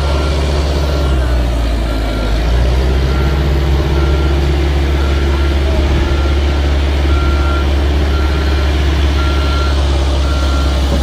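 A heavy machine's engine running with a steady low rumble while its backup alarm beeps at an even pace.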